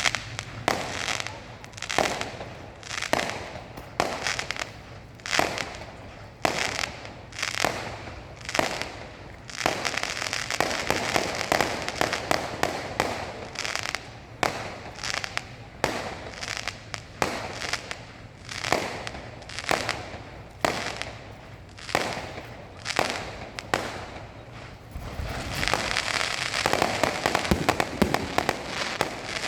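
Fireworks display: a run of sharp bangs, about one a second, each followed by an echoing tail. Dense crackling comes in about ten seconds in and again near the end, where it thickens into a continuous crackling barrage.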